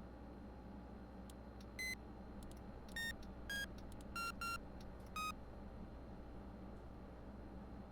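Short electronic beeps from the ceiling fan's speed control, six of them within about three and a half seconds, mostly stepping lower in pitch, over the fan's low steady hum.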